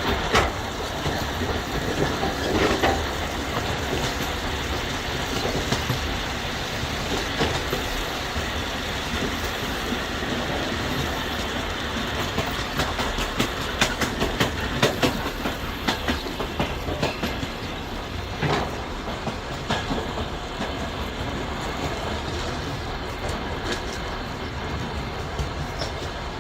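Train wheels clacking over rail joints with a steady running rumble, the knocks coming irregularly and bunching more thickly about halfway through.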